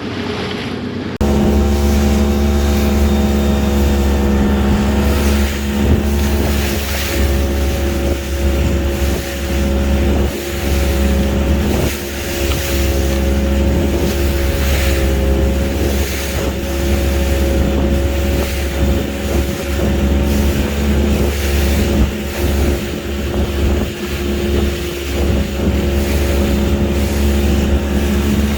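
Small fishing boat's engine running steadily under way, with wind and water noise over it; it comes in abruptly about a second in.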